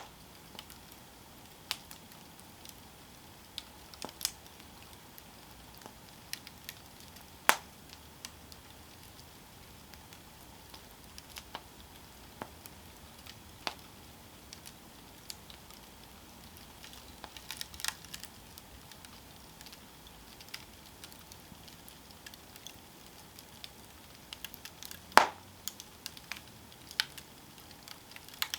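Wood campfire burning with sharp, irregular crackles and pops over a faint steady hiss; the loudest pops come about a third of the way in and near the end.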